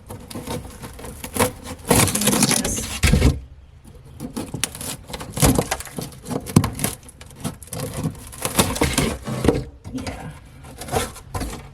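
Irregular scraping, rustling and knocking of wood wall paneling being handled and pulled at, with a louder stretch about two seconds in.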